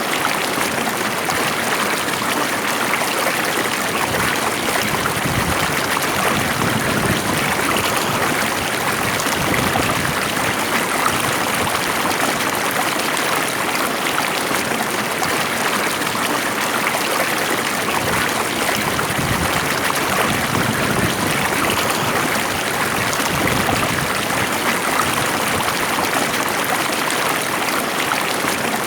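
Stream water flowing steadily over rocks, a continuous even rushing with faint trickling.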